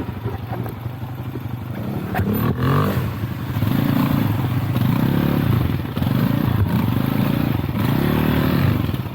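Lifan Xpect motorcycle engine revving up and down about four times as it is ridden over rough off-road ground, with a few knocks and clatter a couple of seconds in.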